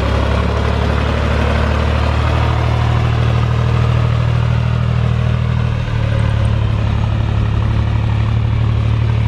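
John Deere tractor engine running steadily with a low drone, its implement just lowered into the ground; the drone dips briefly about six seconds in.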